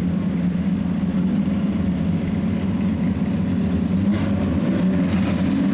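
Engines of Super 6 saloon race cars running together in a steady low drone, with no marked revving up or down.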